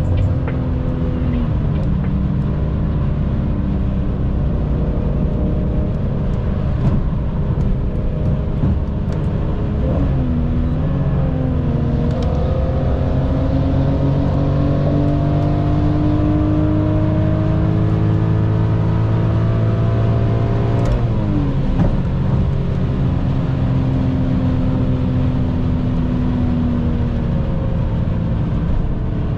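Car engine running under load, its pitch climbing slowly in one gear and dropping sharply at gear changes about a third of the way in and again about two-thirds of the way in.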